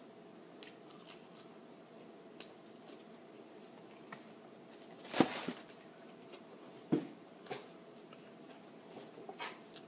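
A person eating fries: scattered short chewing and handling sounds, the loudest a brief rustle about five seconds in and a sharp click near seven seconds.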